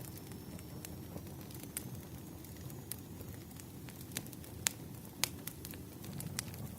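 Wood fire crackling: irregular sharp pops and snaps over a low steady rumble of burning logs, with a couple of louder pops past the middle.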